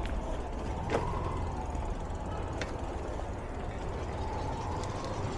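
Busy street ambience with steady road traffic noise and low rumble, broken by a few sharp clicks, the loudest about a second in.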